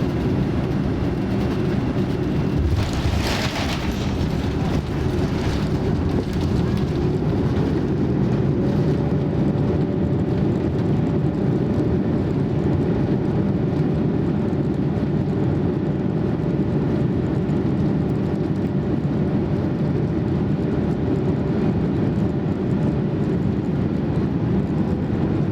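Steady rumble of a Boeing 787-9 heard inside the passenger cabin, engine and airflow noise, with a brief louder hissing rush about three seconds in and a faint steady whine from about eight seconds on.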